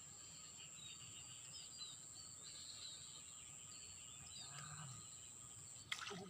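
Faint outdoor ambience: small birds chirping softly over a steady high-pitched whine. A short, sharp, louder sound comes near the end.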